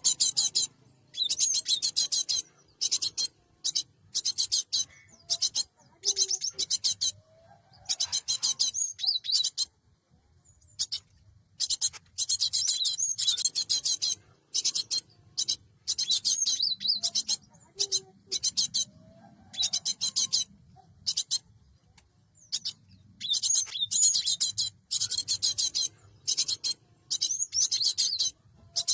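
Cinereous tit (gelatik batu) calling in bursts of rapid, high-pitched, chattering notes, each burst lasting up to about two seconds, with short pauses between them.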